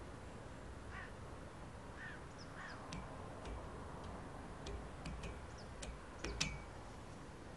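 Birds calling: a few short calls about one and two seconds in, then a run of sharp, high chirps, the loudest near the end, over a steady background hiss.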